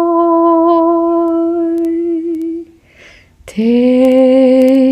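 A woman toning: one long held vocal note that fades out about two and a half seconds in, a breath in, then a lower held note starting about a second later.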